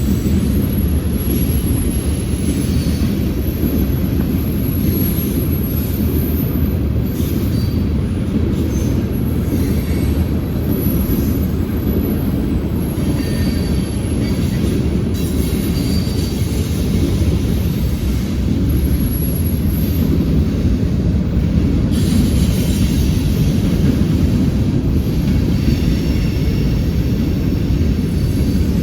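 Freight train rolling past: a steady, loud rumble of railcars on the rails, with faint high wheel squeals coming and going.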